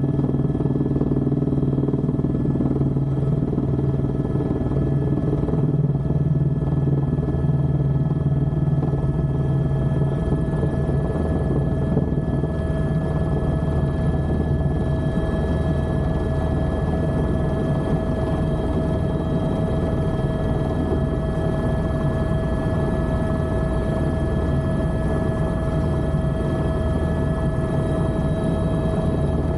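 Helicopter running steadily: a continuous low rotor and engine drone with several constant high-pitched whine tones over it. A lower hum in the drone eases off about ten seconds in.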